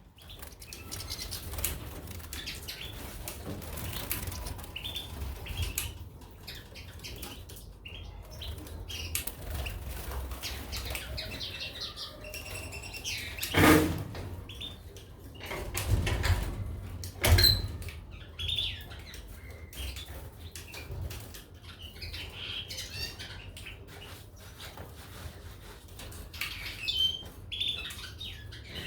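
Small caged finches, goldfinches and canaries, fluttering their wings and giving short chirps. A few sharp knocks come in the middle, the loudest two about three and a half seconds apart, over a low rumble.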